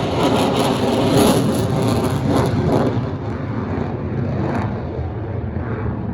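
Jet noise from an F-35C Lightning II's single engine as the jet flies by. It is loudest in the first three seconds, then fades and grows duller as the aircraft moves away.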